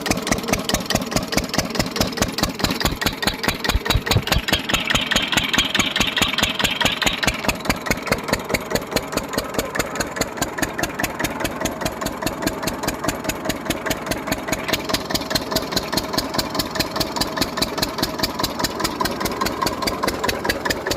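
Old engine running steadily at idle, its firing strokes coming as a fast, even beat.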